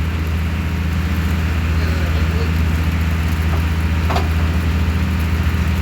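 Passenger ferry boat's engine running steadily with a deep, even drone. Faint voices can be heard underneath it.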